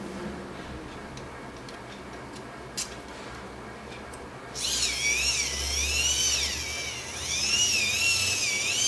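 Microwave-oven turntable motor's reduction gears and rotor whining as its shaft is hand-cranked to generate AC; the whine starts about halfway through and rises and falls in pitch as the cranking speed changes. A single click comes a little before it.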